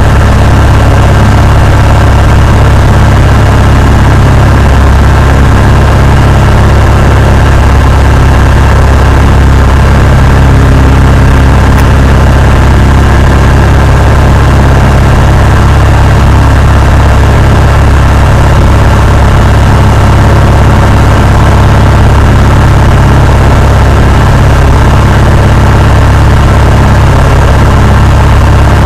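Cessna 172's piston engine and propeller running with a steady, loud drone that holds an even pitch.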